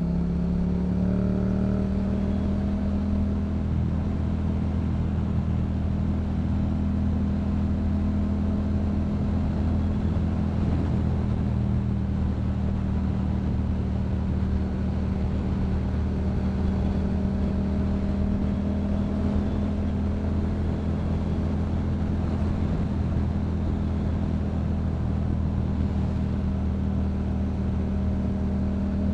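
Yamaha MT-07's parallel-twin engine through a Yoshimura aftermarket exhaust, cruising at a steady speed. The note lifts slightly in the first second or so, then holds nearly constant.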